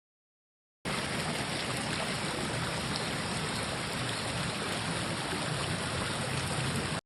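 Mountain stream babbling steadily over rocks. It starts suddenly about a second in and cuts off abruptly just before the end.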